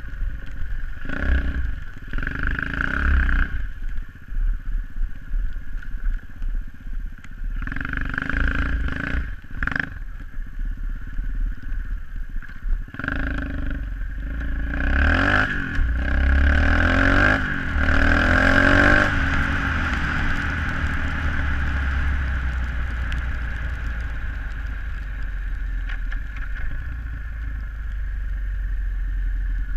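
SSR 125cc pit bike's single-cylinder engine being ridden: short bursts of throttle in the first half, then the pitch rising on hard acceleration about halfway through, and running steadily after that.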